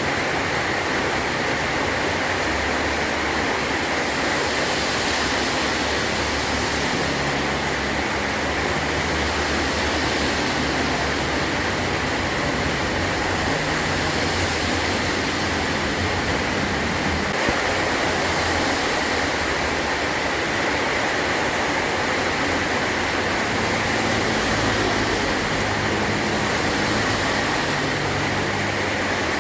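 Heavy rain falling steadily on a metal roof, a dense, even hiss of drops with no letup.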